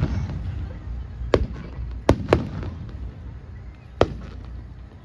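Aerial fireworks bursting: four sharp bangs, one about a second and a half in, two close together just after two seconds, and one at about four seconds, over a steady low rumble.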